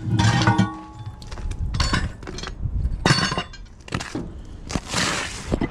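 A run of sharp metal clanks and cracks, the first few ringing briefly, as steel tire tools work a semi-truck tire's bead loose from its rim on a manual tire changer.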